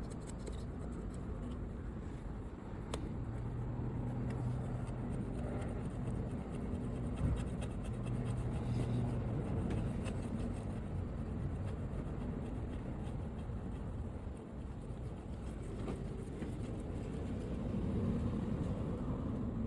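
Brush scrubbing and rubbing over a motorcycle's bodywork during washing, a steady scratchy sound with a low hum that comes and goes.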